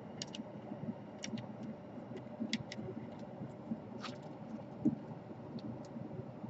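Small irregular clicks and ticks of the plastic wing of a laptop DC power jack being cut and trimmed, with a slightly longer scraping click about four seconds in and a dull knock just before five seconds.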